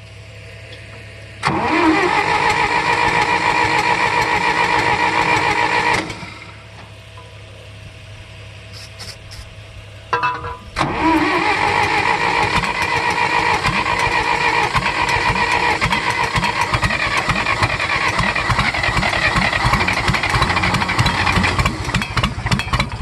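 Electric starter cranking the 1964 John Deere 1010's engine in two bursts, a short one of about four and a half seconds and then a longer one that runs on, with the engine turning over in an even beat without catching. It is being cranked with the fuel turned off to clear a suspected flood.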